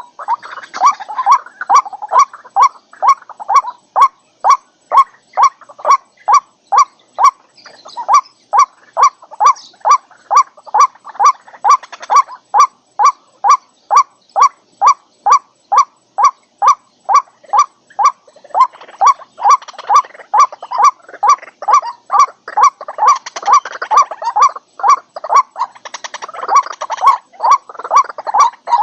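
White-breasted waterhen calling: a monotonous run of short, loud notes at about two a second. In some stretches a rougher bubbling chatter sits behind the notes.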